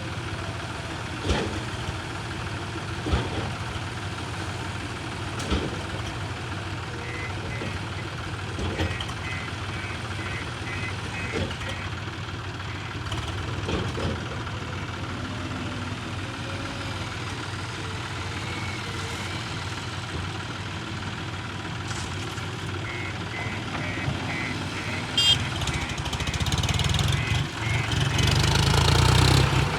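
Diesel earthmoving machinery running steadily with clanks every couple of seconds, and a reversing alarm beeping in two spells. The engine gets louder near the end.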